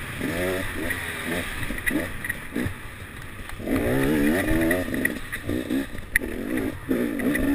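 Enduro motorcycle engine heard from on board, revving up and down in quick rises and falls as the throttle is worked through the turns, with the longest, loudest pull about halfway through. A sharp knock comes late on.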